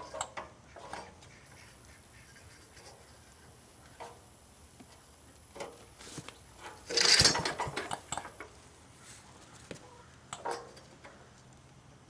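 Clicks and knocks of hands working the controls of a cold cast-iron Briggs & Stratton 19D engine, then, about seven seconds in, a rasp about a second long of the starter rope being pulled, turning the engine over without it catching. A shorter knock follows a few seconds later.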